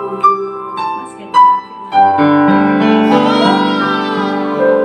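Piano-sounding keyboard playing a few single notes, then a held chord from about two seconds in, as an interlude between worship songs.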